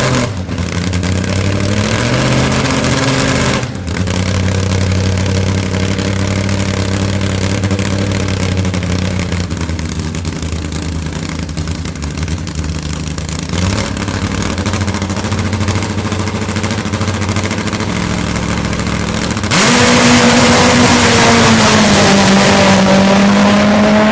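Supercharged nitro-burning Top Fuel drag motorcycle engine running loudly at a steady, throbbing note, its pitch shifting a few times. Near the end it goes to full throttle, suddenly louder with a harsh rush of noise over the engine.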